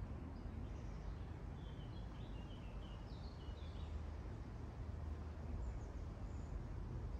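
Steady low background rumble with a few faint, short bird chirps, mostly in the first four seconds and again around six seconds in.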